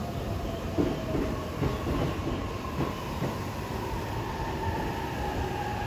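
Train wheels clacking over rail joints, the beats thinning out after about three seconds, with a steady whine falling slowly in pitch.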